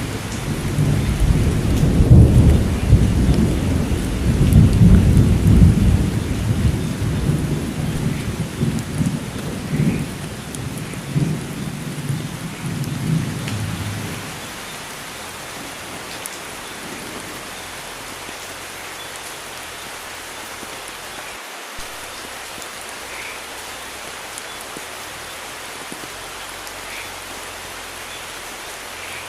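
Steady rain with a long roll of thunder over the first half, loudest a few seconds in and dying away about halfway through; after that only the even hiss of rain falling remains.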